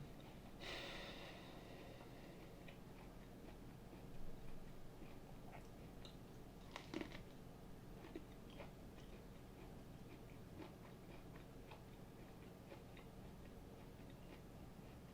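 Faint crunching and chewing of a raw yellow cucumber, with a louder crunch about a second in and another sharp one about halfway through, and small wet chewing clicks in between.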